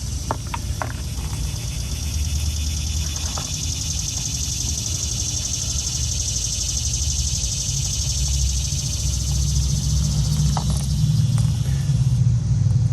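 Outdoor ambience: insects, likely crickets, trill steadily and high, over a low rumble that swells toward the end. A few light handling clicks come in the first second.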